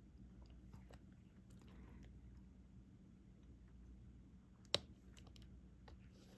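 Faint small clicks and taps of a diamond painting drill pen picking up resin drills and pressing them onto the adhesive canvas, with one sharper click about three-quarters of the way through.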